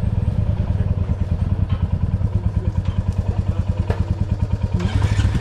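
Single-cylinder engine of a Royal Enfield Classic 350 motorcycle running steadily, with an even, rapid pulsing beat.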